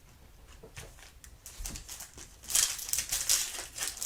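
Topps Chrome baseball cards being handled and flipped through a stack, a run of quick papery slides and flicks starting about two and a half seconds in.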